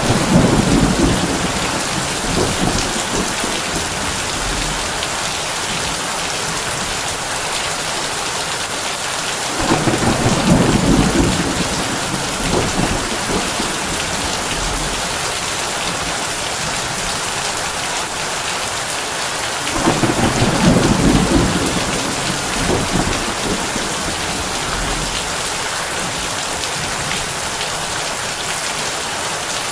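Heavy rain drumming steadily on a tin roof, with low thunder rumbling three times, each swell lasting a couple of seconds and about ten seconds apart.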